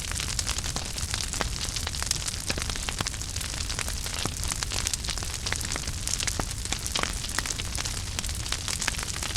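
Wood fire in a fireplace burning steadily: a soft rumble and hiss with frequent sharp, irregular crackles and pops.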